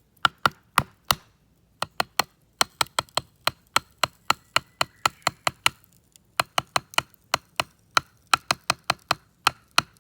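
Batoning: a knife's spine struck over and over with a baton to split a piece of fallen cherry wood in two. Sharp knocks, about three to four a second, with two short pauses, one about a second in and one past the middle.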